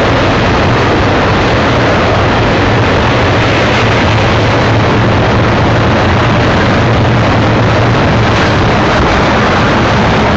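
BNSF double-stack container train rolling past close by: a loud, steady noise of steel wheels on rail, with a low hum underneath and a few faint clicks near the end.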